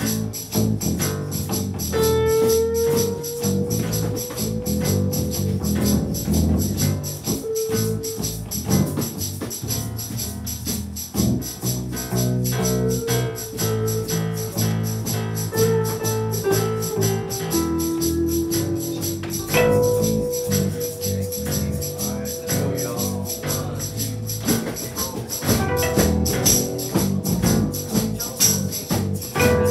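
A small student band playing an original song on a repeating four-chord progression, with a bass line, a steady jingling percussion beat and long held melody notes.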